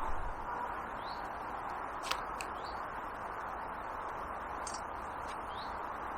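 Birds giving a few short rising chirps, about three spread through, over a steady background hiss, with one sharp click about two seconds in.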